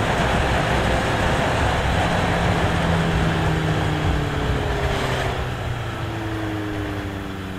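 Motorcycle engine running while riding, under heavy wind noise on the microphone. Over the last few seconds the engine note falls slowly and the wind eases as the bike slows down.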